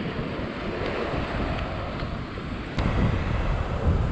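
Wind buffeting the microphone over surf washing onto the beach, with a single sharp click about three seconds in.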